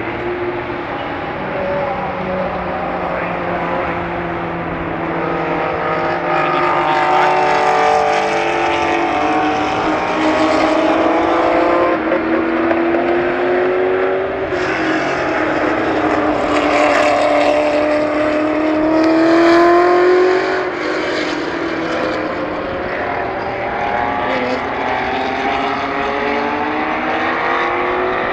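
Racing car engine at hard throttle, its pitch climbing through the revs and dropping back at each gear change, several times over; the loudest push comes about twenty seconds in, followed by a sharp drop.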